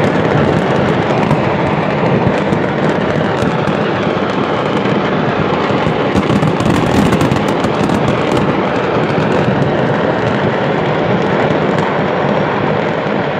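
A market's stock of fireworks going off in a continuous dense barrage: a steady rush of noise packed with rapid crackles and pops, with no single big blast standing out.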